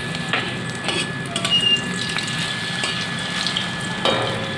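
Batter-coated bamboo leaf sizzling in hot oil in an aluminium kadai, with a few short clicks and scrapes from a metal spatula against the pan.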